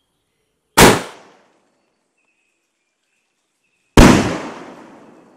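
Two loud firework bangs from 2-inch sky-shot shells, about three seconds apart; the second trails off in a long echo.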